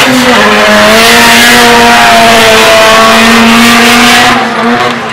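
A car engine run hard at high revs as the hatchback accelerates down the drag strip. The note steps down in pitch once just after the start, as at an upshift, then holds steady before dropping off and fading about four seconds in as the car pulls away.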